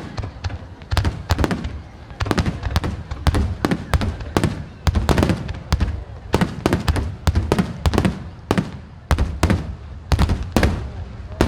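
Rapid barrage of aerial firework shells bursting: several sharp bangs a second, run together with a continuous low rumble.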